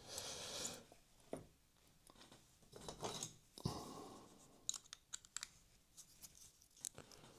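Faint, scattered clicks and small scrapes of tiny parts and tools being handled, with one sharper click about halfway through, as a screw, washer, spring and nut are fitted to a model locomotive's front bogie.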